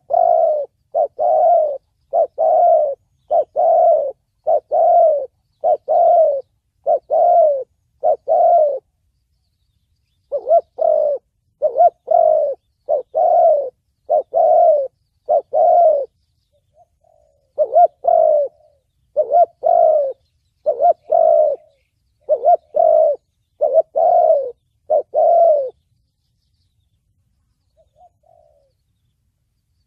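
Spotted dove cooing in the 'thổ bầu' voice that bird keepers prize for luring wild doves. Short coos repeat about once a second in three runs, with brief pauses near nine and seventeen seconds, and each note falls slightly in pitch.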